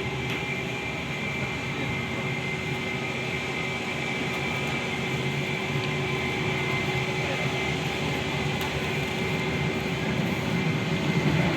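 Jet engines of a British Airways Airbus A320-232 (IAE V2500 turbofans) running with a steady whine over a low rumble, growing a little louder near the end.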